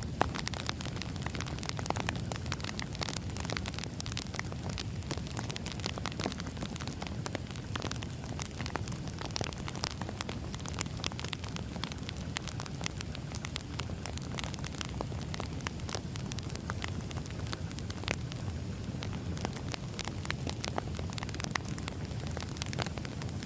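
Firewood burning in a wood fire, crackling with many irregular sharp pops and snaps over a steady low rumble.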